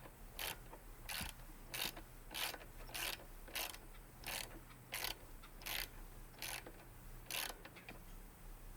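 Hand tool worked in short, even, raspy strokes, about three every two seconds, on a Toro lawnmower's carburetor.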